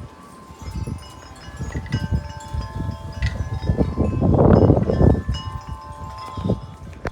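Wind chimes ringing with many overlapping tones as they are struck in gusty high wind. The wind rumbles on the microphone and swells to its strongest about four to five seconds in.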